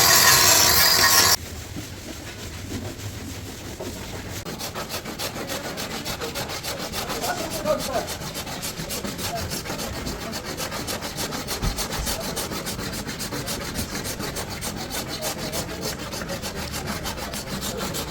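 A power tool runs loudly and cuts off about a second and a half in. Then a hand tool rasps or scrapes on metal in quick, even, repeated strokes, as in filing, sawing or wire-brushing rusty car body steel.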